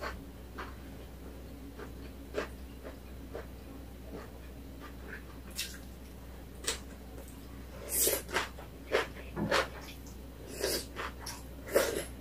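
Close-up eating sounds of napa cabbage kimchi being chewed: short, irregular mouth noises, sparse at first, then louder and more frequent from about eight seconds in.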